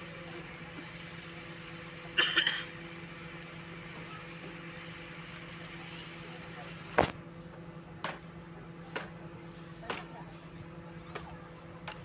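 Heavy machinery engine running with a steady hum at a railway recovery site. About two seconds in there is a brief high screech. About seven seconds in comes a sharp metallic bang, followed by lighter knocks roughly once a second.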